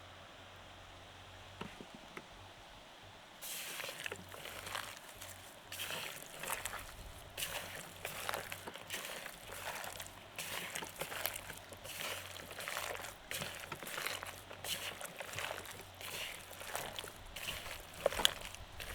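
Wet squelching of raw chicken pieces being worked by hand in a marinade, in irregular short squishes that start a few seconds in and carry on.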